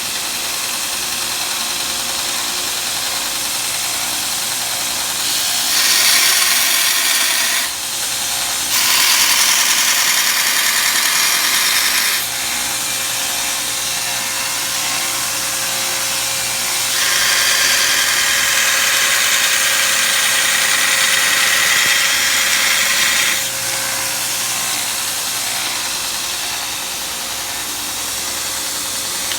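Homemade belt grinder running steadily with a constant hum, broken three times by louder, harsher hissing stretches lasting a few seconds each.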